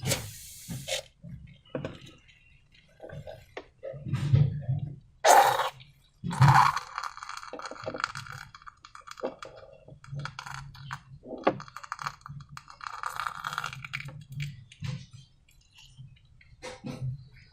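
Hands handling slime-making materials: irregular clicks, knocks and small clinks, with stretches of fine crackling in the middle. The two loudest knocks come about five and six and a half seconds in.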